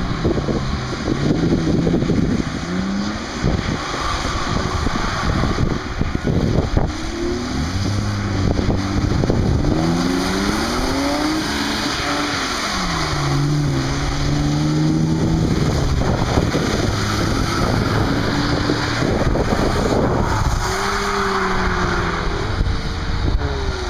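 Drift cars' engines revving hard, the pitch climbing and dropping again and again as the cars slide through the corners, with wind buffeting the microphone.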